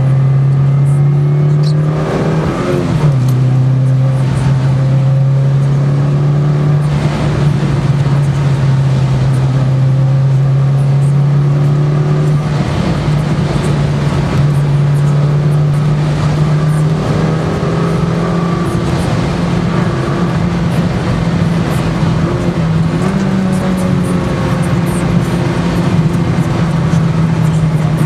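Mitsubishi Lancer Evolution IX's turbocharged 2.0-litre inline-four engine heard from inside the cabin, pulling at fairly steady revs, with a brief drop in revs about two to three seconds in.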